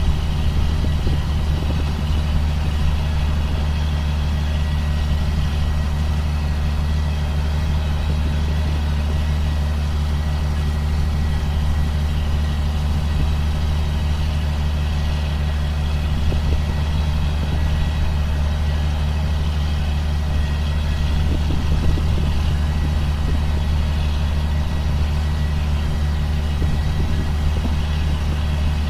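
Diesel engine of a 2005 John Deere self-propelled sprayer running steadily, a constant low drone with a faint steady whine above it.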